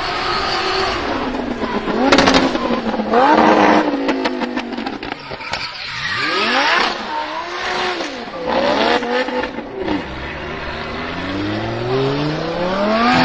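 Lamborghini Huracan drift car's engine revving hard, its pitch rising and falling repeatedly, with bursts of tyre squeal. In the last few seconds the revs climb steadily.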